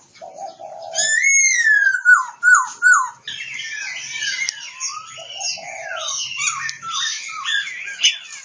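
Oriental magpie-robin (kacer) singing: loud, clear whistles that slide down in pitch about a second in, then a fast, varied run of chirps and whistled notes. A short, lower, buzzy call sounds twice.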